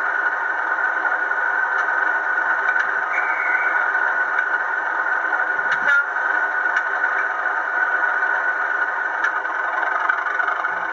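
Model train running on a layout: a steady whirring hum with scattered light clicks. A short higher tone comes about three seconds in, and a sharper click near the middle.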